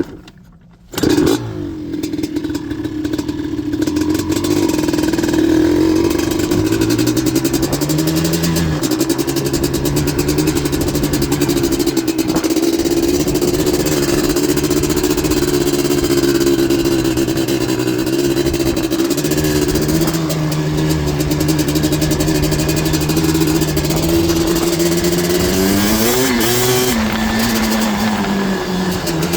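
Yamaha Blaster 240cc big-bore single-cylinder two-stroke with an FMF exhaust, running hard under throttle. It cuts in abruptly about a second in and holds a steady high pitch, with a couple of shifts in engine note and a brief rise and fall near the end.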